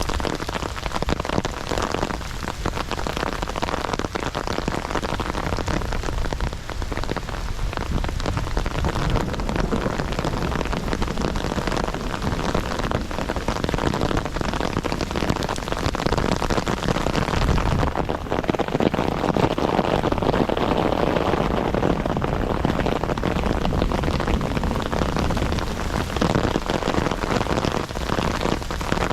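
Heavy rain pouring steadily, with many close, sharp drop hits over the dense hiss of the downpour. It swells slightly about two-thirds of the way through.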